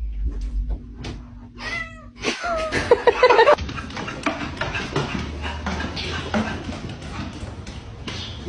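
A cat meowing: a short meow about two seconds in, then a louder, longer one about three seconds in, with scattered knocks and clatter afterwards.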